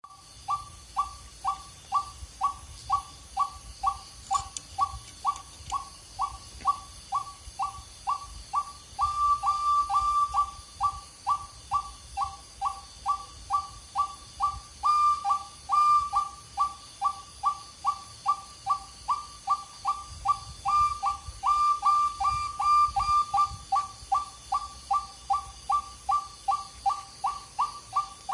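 Mouth-whistled imitation of a white-breasted waterhen's call, used to lure the bird: a short note falling in pitch, repeated steadily about three times a second.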